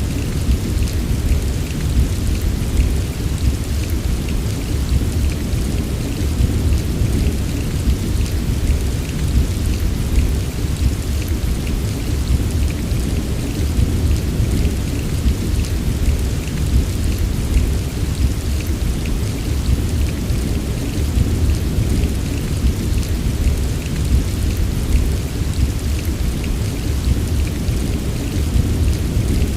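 Steady rain with a continuous deep low rumble under a fine patter of drops, unchanging throughout.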